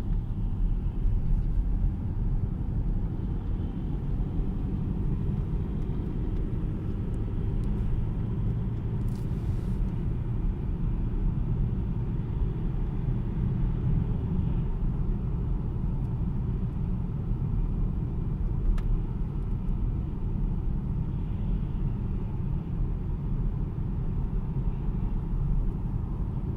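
Mercedes-Benz E-Class All-Terrain engine running under the hood with a steady low rumble, and with a clicking noise from the engine bay that the owner treats as a fault.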